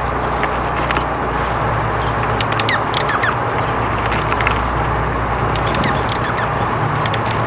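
Birds chirping and calling in short chirps and quick falling notes, in clusters about a third of the way in and near the end, over a steady rushing background noise.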